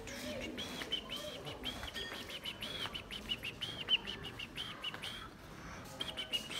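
A small bird calling over and over in a quick run of short, high chirps, about four a second, breaking off about five seconds in and starting again near the end.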